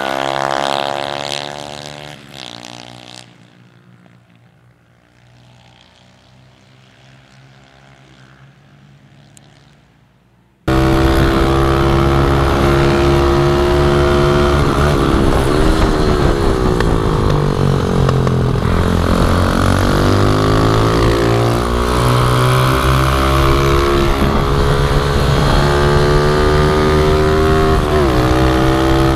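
A pit bike engine passes with falling pitch and fades into the distance over about three seconds, leaving faint engine noise. About ten seconds in, a loud, close pit bike engine cuts in abruptly and keeps running, its pitch rising and falling as the throttle is opened and closed.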